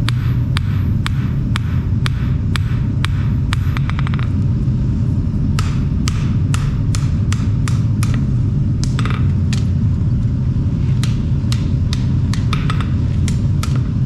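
Hammer blows on steel being forged, about two a second at first, then a quick flurry and more irregular strikes, over a steady low rumble.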